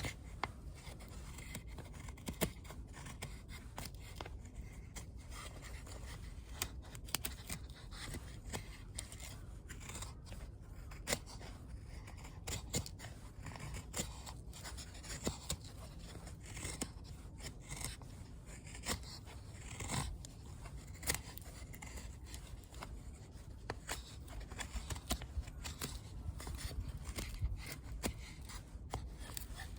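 Wood fire crackling in a fire pit, with irregular small snaps and pops over a low steady rumble.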